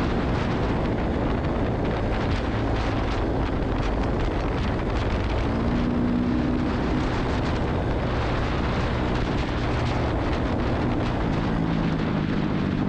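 Honda CRF250 dirt bike's single-cylinder four-stroke engine running under way, half buried in heavy wind rush on the chest-mounted camera's microphone.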